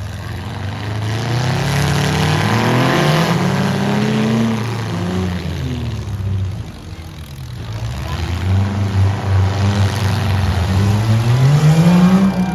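Demolition derby car engines revving hard, their pitch rising and falling again and again as the cars accelerate and back off. A short lull comes about halfway through.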